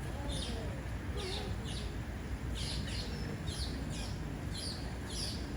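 A bird calling over and over: short high notes, each sliding downward, about two a second, over a steady low rumble.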